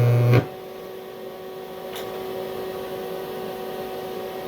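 A DCEP TIG welder's loud, steady buzz on aluminium cuts off suddenly about half a second in as the arc stops. The welding machine's steady electrical hum carries on at a lower level.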